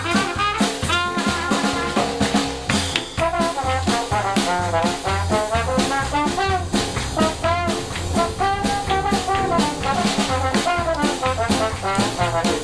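Live jazz band with brass and drums playing a swing tune, horns carrying the melody over a steady walking bass beat.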